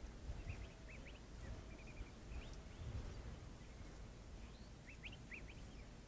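Short, high bird chirps, quick rising notes in a few loose clusters, the first from about half a second to two and a half seconds in and another about five seconds in, over a faint low rumble.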